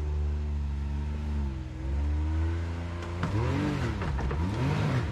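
Off-road rock crawler's engine running steadily, then revved up and down in quick blips from about three seconds in as the rig is bumped at a rock ledge, with a rush of noise under the revs.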